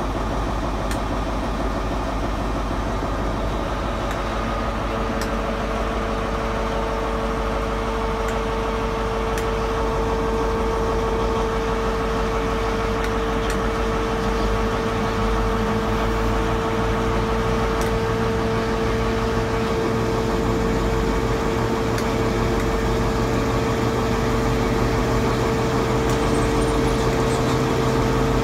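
Diesel train engine running steadily, with a low hum and a steady whine that comes in about five seconds in, slowly growing louder.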